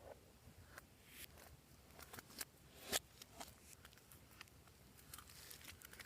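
Slime being worked by hand, giving quiet, scattered sticky clicks and small pops, one louder pop about three seconds in.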